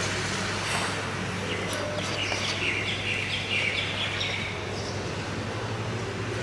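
A small bird chirping in a quick series of short, repeated high notes for about three seconds, over a steady low hum.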